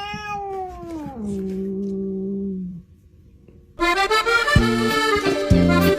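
A long pitched wail slides down in pitch, holds level, and stops under three seconds in. About four seconds in, accordion music starts.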